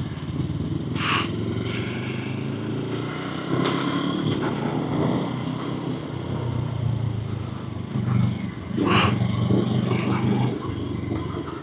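Small sport motorcycle engine running steadily on the road, its pitch shifting a little, with two short bursts of noise over it, about a second in and again near nine seconds.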